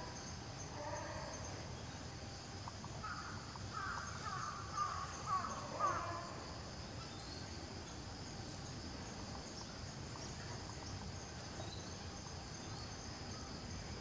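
A bird gives a short series of harsh caws from about three to six seconds in, over steady high-pitched insect chirring.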